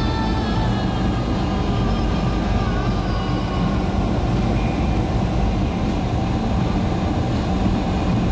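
Car driving on snowy roads, heard from inside the cabin: a steady rumble of engine and tyres.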